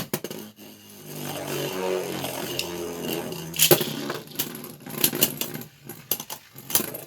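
Two Beyblade spinning tops, one with a 3D-printed plastic layer, whirring in a plastic stadium, the hum slowly falling in pitch, with repeated sharp clacks as they strike each other; the loudest clash comes about three and a half seconds in.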